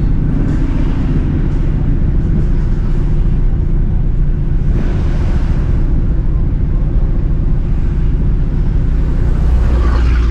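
A car engine running steadily with a deep low hum, growing a little louder near the end.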